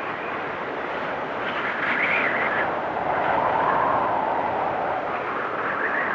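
Blizzard wind blowing steadily, with gusts that swell into a whistling tone, loudest about two seconds in and again around three to four seconds in.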